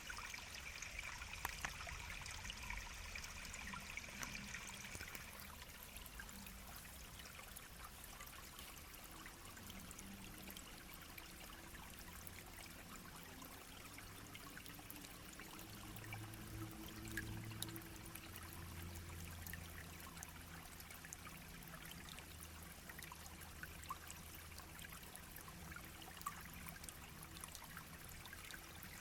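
Shallow brook babbling and trickling steadily, with small splashes and drips over a soft, even rush of water.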